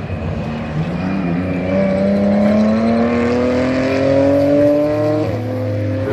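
GT race car engine accelerating on track, its pitch climbing steadily through one gear, with a quick upshift about five seconds in before it pulls on again.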